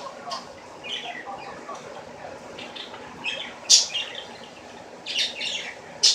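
A bird chirping in short, scattered calls, the loudest a little past halfway and at the very end.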